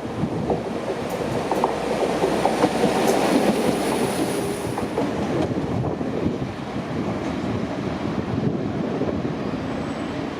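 Train running along the rails, its wheels clicking over rail joints, loudest a few seconds in, with a faint high whine for a couple of seconds midway.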